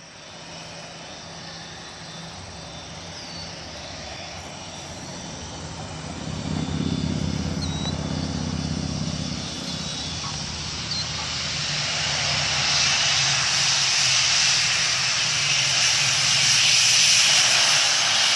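Light piston-engined propeller plane running through a landing, its engine drone mixed with a steady rush of air noise. The engine note swells about six seconds in, and a loud hissing rush builds toward the end.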